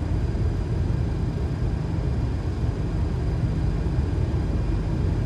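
Steady low rumble on the flight deck of a Boeing 737 on final approach with gear down and flaps 30: engine and airflow noise, even throughout.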